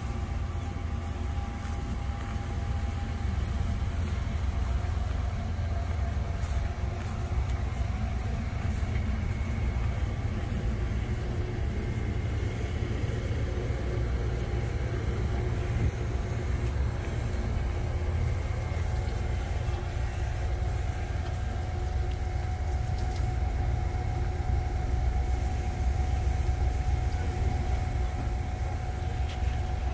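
Freight train rolling past: a steady low rumble with faint, steady high tones over it and occasional light clicks.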